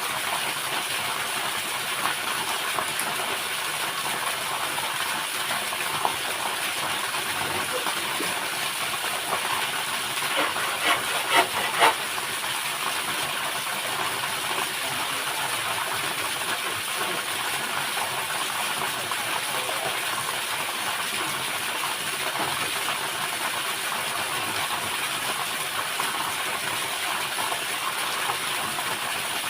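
Steady rush of falling water from a waterfall, with a short run of sharp knocks about ten to twelve seconds in.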